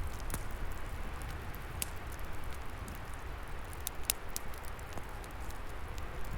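Log fire crackling, with scattered sharp pops over a steady rush of wind in the trees and a low rumble.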